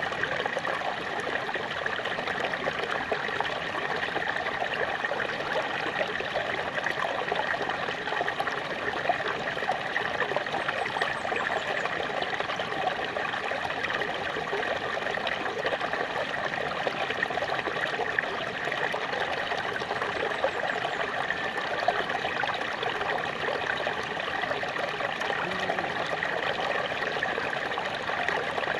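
Small waterfall: water splashing and trickling steadily over rocks, a continuous even rushing with fine rapid flicker.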